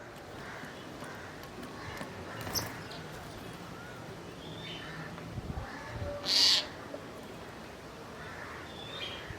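Crows cawing and small birds chirping, with one loud, harsh call about six seconds in.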